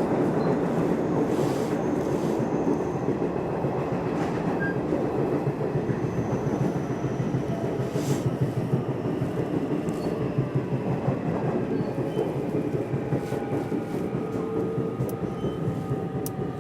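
Nishitetsu electric commuter train running on the rails, heard from inside the car: a steady rumble of wheels on track with faint clicks over rail joints. It gradually gets quieter as the train slows for a station.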